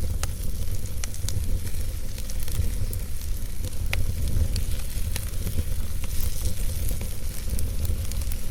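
Wood fire burning in a fireplace: a steady low rumble of flames under a hiss, with scattered sharp crackles and pops from the burning wood.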